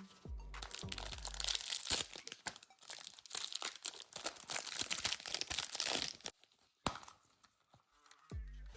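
Plastic packaging crinkling and crackling as it is handled, a dense run of small crackles lasting about six seconds and stopping shortly after six seconds in. Background music with a beat plays underneath.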